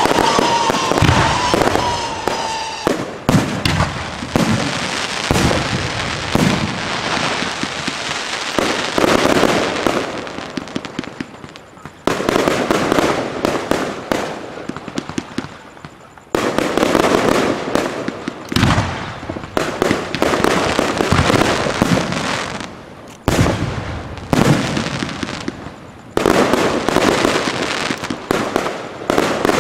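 Aerial fireworks display: dense, rapid volleys of bursts and crackling, coming in waves that start abruptly (about 12, 16 and 26 seconds in) and fade away between them.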